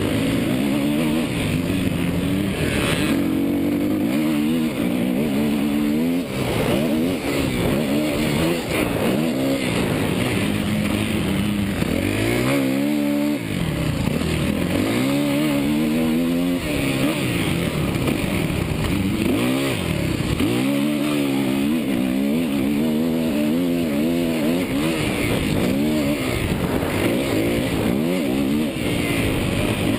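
Suzuki motocross bike's engine being ridden hard, its pitch climbing and falling again and again through throttle and gear changes. It drops off the throttle briefly about 13 and 21 seconds in.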